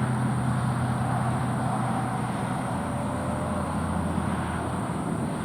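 Steady road traffic noise: a continuous low rumble with no single vehicle standing out.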